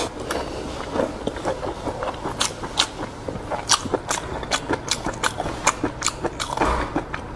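Close-miked chewing of a mouthful of sausage: a quick, irregular run of wet mouth clicks and lip smacks.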